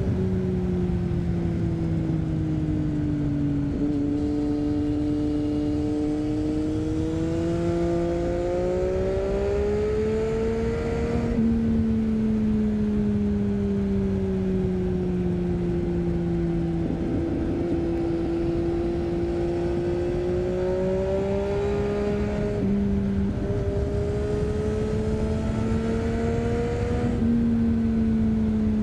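Triumph Street Triple 675's inline three-cylinder engine running under way through an Arrow 3-2 exhaust with its dB-killer fitted. The engine pitch climbs and falls in long sweeps, with sudden steps about 11, 23 and 27 seconds in, as at gear changes, over a steady rush of wind.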